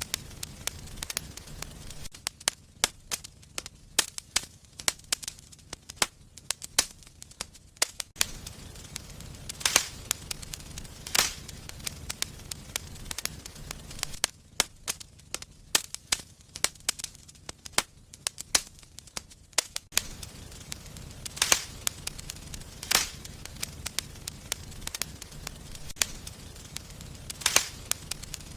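Wood fire burning in a fireplace, crackling with irregular sharp pops and snaps, a few of them much louder than the many small ones.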